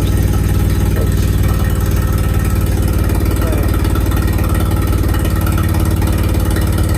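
1987 Nissan 200SX S12's engine running at a steady idle.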